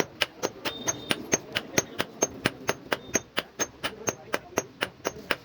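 Hand hammer striking steel on an anvil in a fast, steady rhythm, about four to five blows a second, some blows leaving a short metallic ring: forging a fishing spear.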